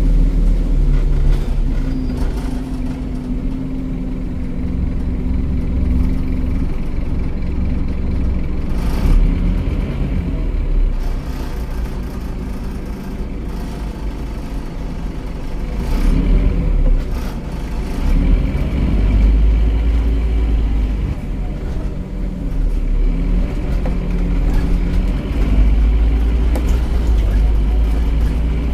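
Scania OmniCity bus's Scania DC9 9.3-litre five-cylinder diesel engine with ZF automatic gearbox, running with a heavy low rumble. It holds a steady note at first, then its pitch rises and falls a couple of times as the bus pulls away and changes gear.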